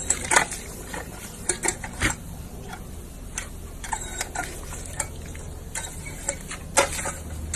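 Irregular light clicks and taps, some sharper than others, a few a second over a low steady hum.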